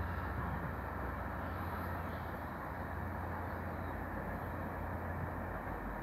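Via Rail passenger train passing at a distance: a steady low rumble that dies away about five and a half seconds in, over a faint even hiss.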